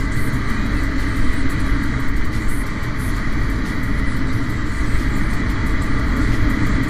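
Honda CG 150 single-cylinder motorcycle engine running steadily while riding, heard over a constant rush of road and wind noise.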